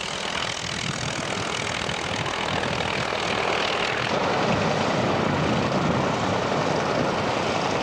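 Light aircraft engine running, growing a little louder about halfway through and then holding steady.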